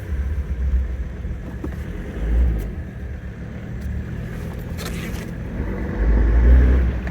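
Mercedes turbo diesel engine in a Toyota 4Runner running at low speed, heard from the cab with the windows down. It swells louder in the low end briefly about two and a half seconds in, and again for about a second near the end.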